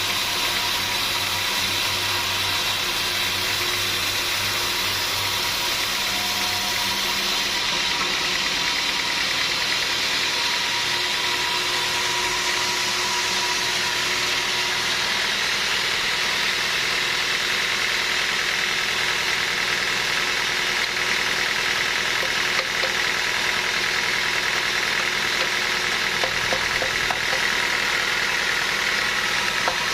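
Sawmill machinery running steadily, a continuous mechanical drone with a faint steady hum. Its tone changes slightly about seven seconds in.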